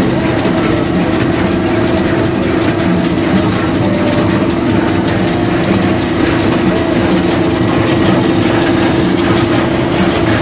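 Heavy farm machine's engine running steadily under load, with a constant drone and no change in speed.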